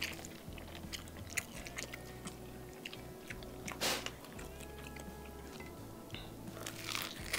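Close-miked mouth sounds of eating by hand: wet chewing and smacking with crunchy bites and crackles, the loudest burst about four seconds in.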